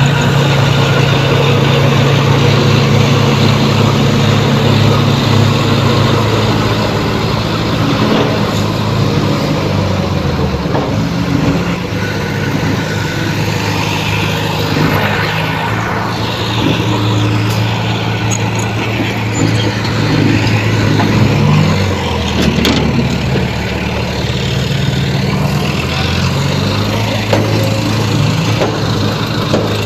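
Heavy diesel engine of earthmoving machinery running loud and steady, its pitch dropping and rising as the load changes.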